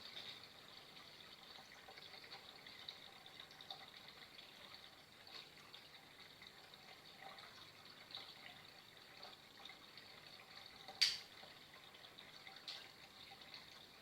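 Faint, steady trickle of flowing water with small scattered ticks, and a sharp click about eleven seconds in, the loudest sound here, followed by a softer one a moment later.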